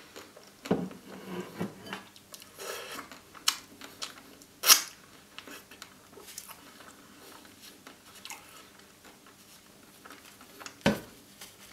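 Close-miked eating sounds: wet chewing and lip smacks on a mouthful of ice cream sandwich dipped in custard, with finger licking. One smack about halfway is sharper and louder. A dull knock comes near the end.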